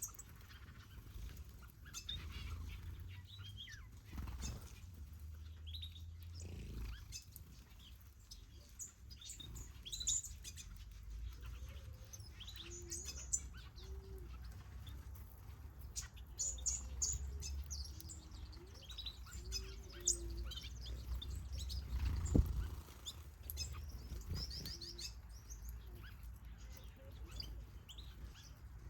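Mixed aviary of finches and softbills chirping, with many short high calls overlapping throughout and a few soft low notes. A low rumble runs underneath, and there is a single thump about three-quarters of the way through.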